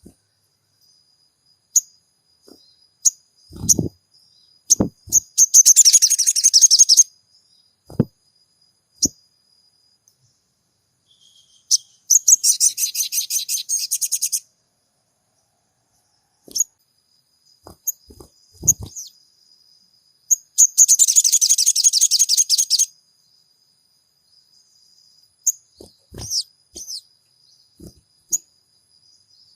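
Sogon songbird calling: sharp high chirps and three loud, rapid, buzzy trills of two or three seconds each, with a thin steady high whistle held between them. A few short low knocks are scattered through.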